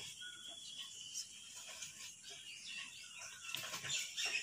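Faint chirping of small birds, with a few quiet clicks.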